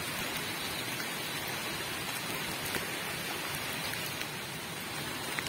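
Steady rain falling, an even hiss with the odd faint drop tap.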